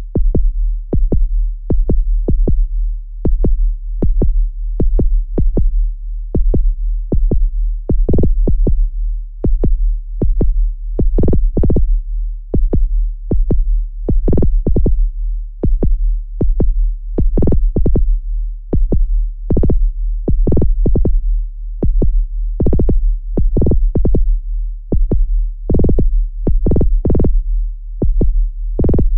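Korg Volca Drum digital percussion synthesizer playing a looped electronic drum pattern: sharp synthesized hits about three times a second over a continuous deep bass.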